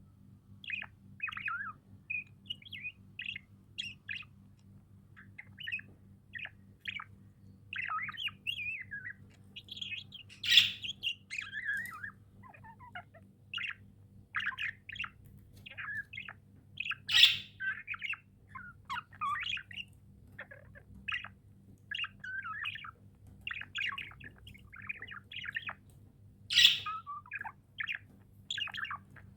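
Budgerigars chirping in constant quick chatter, with three louder, sharper squawks about ten, seventeen and twenty-six seconds in.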